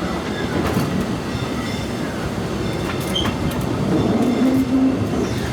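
Disneyland Railroad train rolling along the track, heard from aboard a passenger car: a steady rumble of wheels on rail with scattered clicks and clacks.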